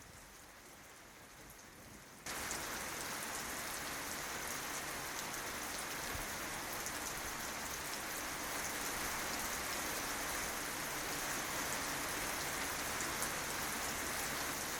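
Steady rain falling on tree leaves, a dense even hiss of drops. It is faint for the first couple of seconds, then abruptly louder.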